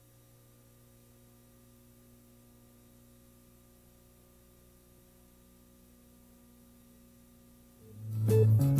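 A faint, steady electrical hum with nothing else over it for most of the clip, then loud band music comes in near the end.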